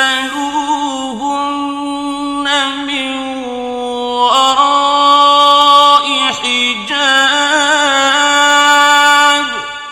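A male Quran reciter chanting a verse in the slow, melodic mujawwad style. He holds long, ornamented notes with wavering pitch and glides between them. The phrase fades away with a reverberant tail near the end.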